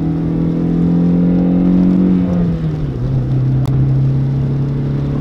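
Stock 1.0-litre MPI four-cylinder engine of a VW Lupo heard from inside the cabin under hard acceleration. Its note climbs slowly, then drops at an upshift about two and a half seconds in and carries on steadily. This is a slow run in the unmodified car, which needed about 29 seconds to reach 100 km/h.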